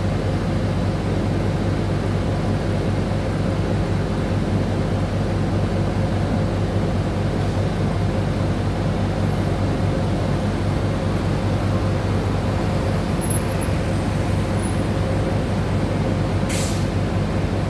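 A steady low mechanical drone with a constant hum, with a brief hiss near the end.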